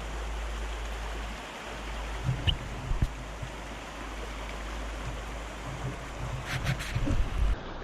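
Fast-flowing river rushing steadily in its rainy-season flow, with low thumps about two seconds in and a cluster of them near the end.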